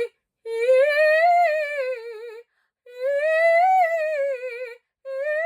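Classical female voice singing vocal exercise phrases on a vowel: each phrase glides up and sinks back down with vibrato, twice, with a third starting near the end. It is sung with the tongue pressed down low and the breath supported from the belly, the technique being demonstrated.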